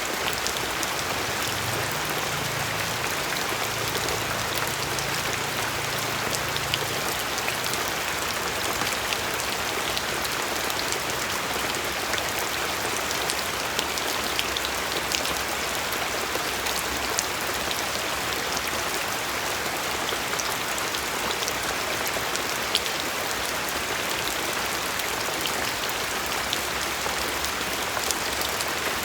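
Steady rain falling, a continuous hiss with many individual raindrops ticking sharply on a surface.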